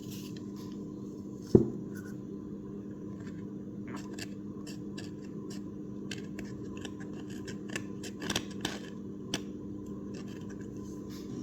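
Scalpel blade scraping old foam surround residue off a McIntosh speaker's firm plastic cone: scattered short scratches and clicks over a steady low hum, with one sharp knock about a second and a half in.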